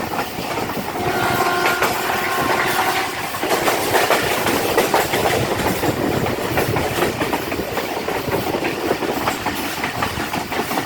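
Passenger train running, its wheels clattering over the rail joints under a steady rumble. About a second in, a train horn sounds for about two seconds.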